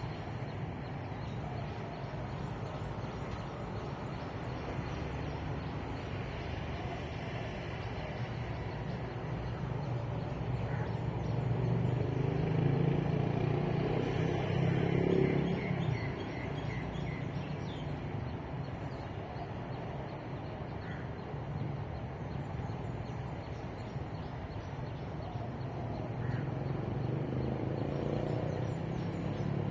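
Steady road-traffic rumble, with one vehicle passing close by: it swells for a few seconds near the middle and drops away sharply. A few faint bird calls are heard over the traffic.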